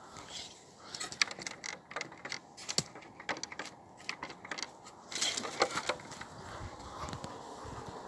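Irregular sharp clicks and light knocks, densest in the first half and thinning out after about five seconds.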